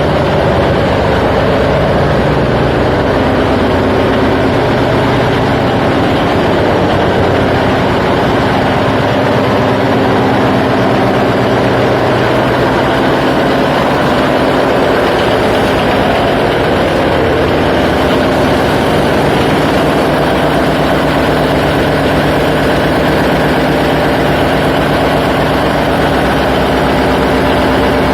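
Ship's diesel engine on a fish-collecting vessel, running steadily: a loud, even mechanical drone with a fast firing pulse.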